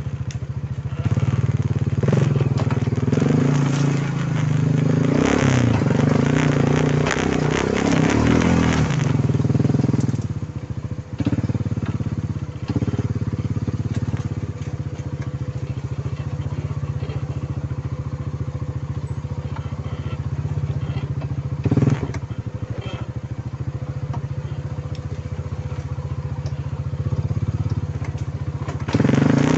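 Quad bike (ATV) engine running, its pitch rising and falling for the first ten seconds or so, then settling to a steadier, quieter note for the rest. A single short knock sounds about 22 seconds in.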